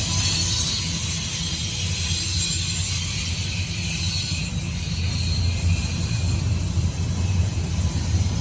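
Intermodal freight train rolling past: a steady low rumble of wheels on rail, with a fast flutter in the rumble and a steady high hiss.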